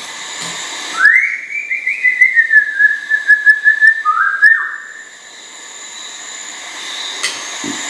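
A bird's long whistled call. It rises quickly at the start, warbles at about four to five pulses a second around one pitch, then dips briefly before cutting off.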